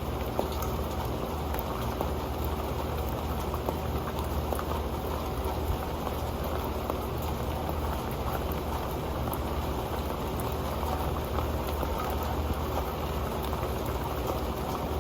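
Rain falling steadily onto an old metal pan, a dense patter of drops with scattered sharper ticks on the pan.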